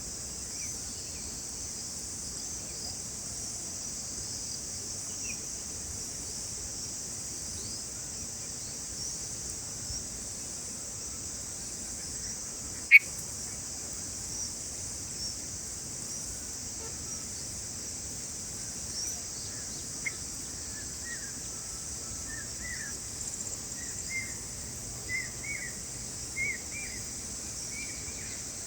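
Steady high-pitched insect chorus throughout. A single sharp click sounds about halfway through. In the last third there is a scatter of short bird chirps.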